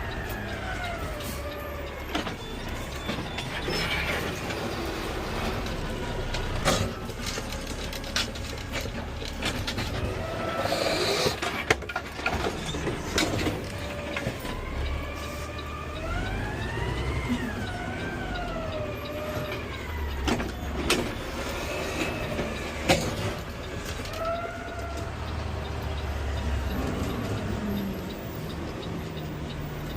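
Peterbilt 520 automated side-loader garbage truck at work: a steady low engine rumble under a whine that rises and falls in pitch several times. Scattered clanks and knocks sound over it.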